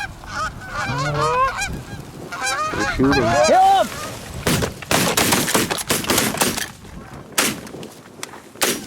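Canada goose honking and clucking for the first few seconds, then a rapid volley of shotgun shots from several guns about halfway in, with a couple of more spaced shots near the end.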